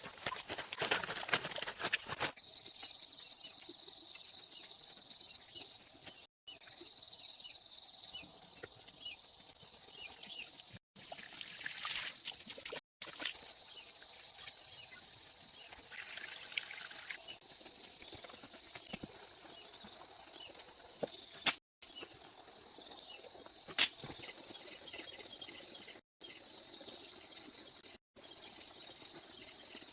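Insects chirring steadily in a high, even pitch, with a flurry of clicking and tapping in the first couple of seconds and two sharp single knocks later on. The sound cuts out completely for an instant several times.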